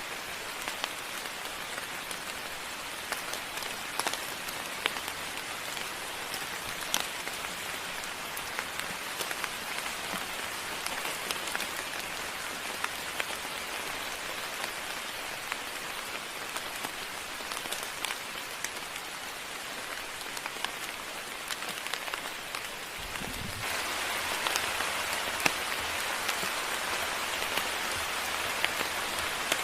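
Steady moderate rainfall, a dense hiss with individual drops ticking sharply on a surface. About three-quarters of the way through there is a brief low thump, and the rain grows louder.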